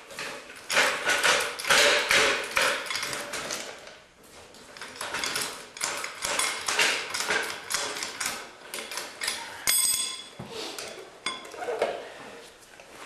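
Irregular metal knocks and clanks of tools and parts as the transmission is worked loose from an Allis Chalmers 310 garden tractor, with one clear ringing metallic clink about ten seconds in.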